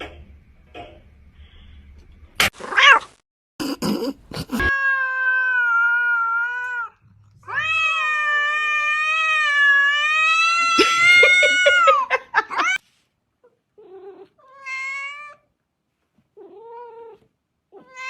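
A cat yowling in long drawn-out calls: one about two seconds long, then one about five seconds long, then two shorter ones. A few brief, sharp, noisy sounds come before the first call.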